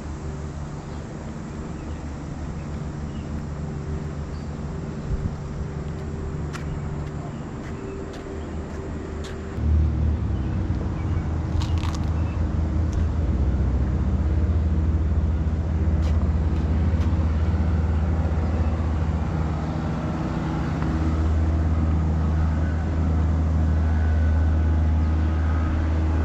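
Diesel locomotives of a train running, a steady low engine drone that grows louder about ten seconds in.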